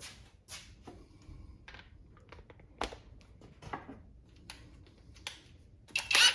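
Scattered light clicks and taps of metal hand tools and sockets being handled, ending in a louder metallic clatter with a brief ring near the end.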